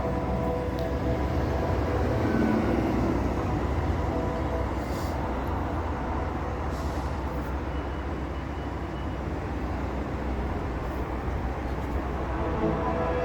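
A steady, low rumbling drone: the unexplained 'sky noise', of the kind reported as 'sky trumpets'. A brief higher tone sounds about two and a half seconds in.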